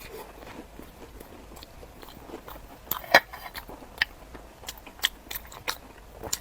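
Close-miked eating of crunchy food: crisp bites and chewing, with one loud crunch about three seconds in and several sharp crunches after it.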